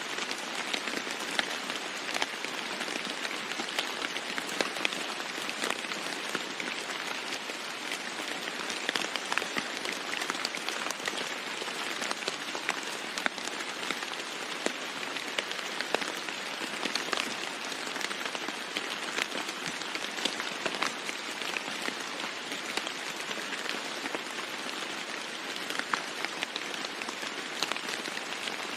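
Steady rain falling on a roof: an even hiss with many single drops striking sharply and irregularly throughout. No thunder.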